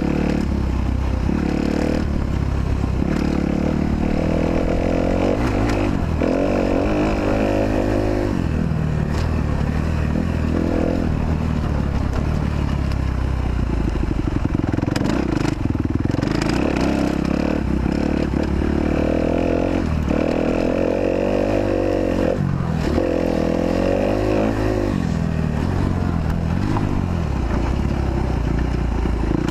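Kawasaki KX250F's 250 cc four-stroke single-cylinder motocross engine riding round the track, revving up and dropping back again every few seconds.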